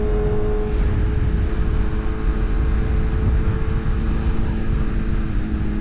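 BMW S1000RR's inline-four engine holding a steady cruise at highway speed, its pitch nearly constant, under heavy wind rumble on the microphone.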